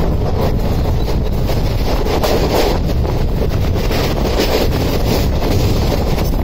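Express passenger train running, heard from on board: a steady rumble of wheels on rails mixed with heavy wind buffeting the microphone.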